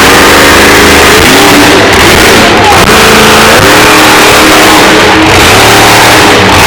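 Monster truck engine revving hard, its pitch climbing and dropping several times, very loud and close to overloading the recording.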